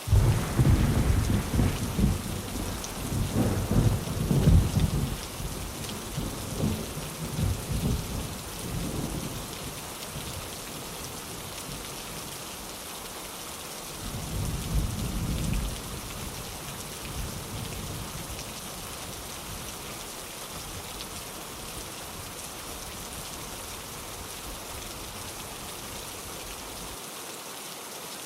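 Steady heavy rain with thunder: a loud rumble breaks in suddenly at the start and rolls on for about ten seconds, and a second, shorter rumble comes around the middle.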